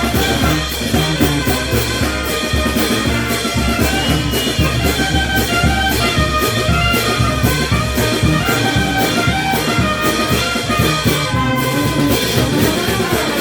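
Peruvian brass band playing: trumpets and trombones carrying the tune over a steady drum beat.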